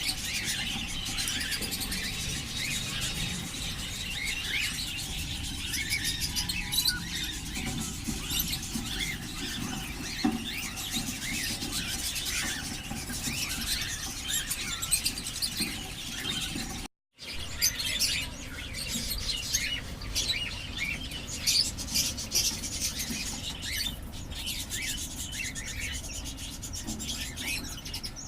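Budgies and cockatiels chattering, a dense run of short high chirps and calls, broken once by a brief cut about two-thirds of the way through.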